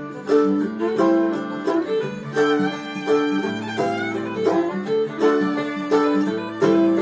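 Instrumental bluegrass break: a fiddle plays the melody over rhythmic picked acoustic guitar.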